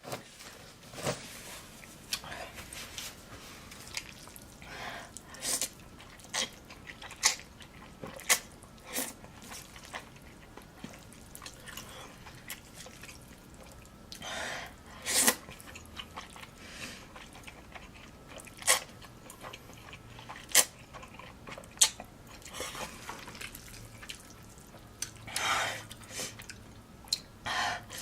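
Close-miked eating: a person chewing, with many short, irregular mouth clicks and a couple of longer, noisier sounds about halfway through and again near the end.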